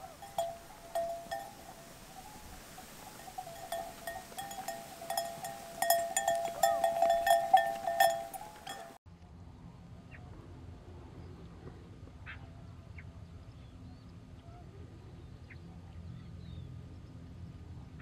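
Bird calling over and over in short pitched calls, growing louder to a fast run of calls near the end of the first half. About nine seconds in the calls stop abruptly, leaving a faint low hum with a few soft ticks.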